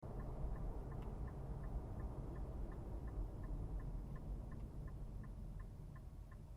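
Car turn-signal indicator ticking evenly, about three ticks a second, over the low steady rumble of the car driving.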